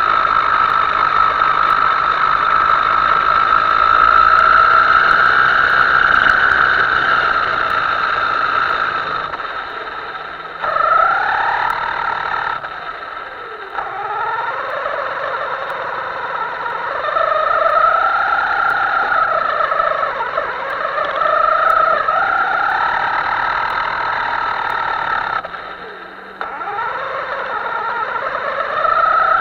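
Himoto RC boat's motor whining, its pitch rising and falling as the throttle is worked. The whine drops away briefly three times as the throttle is eased off.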